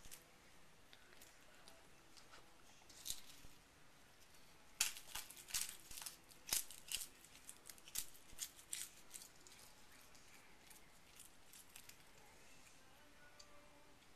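A cat chewing and crunching crisp dried seaweed sheets: a run of short, sharp crackles, densest from about a third of the way in to about two-thirds, then fading to faint room tone.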